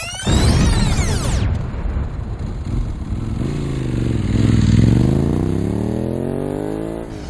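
A motorcycle engine accelerating: after a loud rush of sound at the start, the engine note dips briefly and then climbs steadily in pitch for a few seconds.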